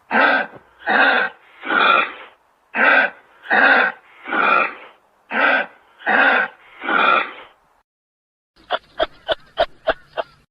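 Kangaroo calling with nine short grunts about a second apart, then a quick run of about eight sharp clicks near the end.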